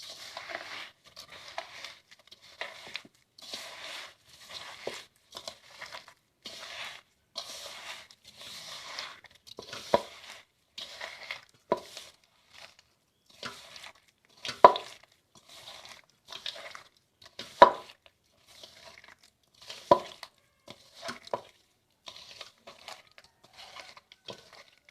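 Ripe bananas being mashed by hand with grated coconut and sugar in a large bowl: repeated wet squishing and gritty crunching strokes, with a few sharper knocks against the bowl.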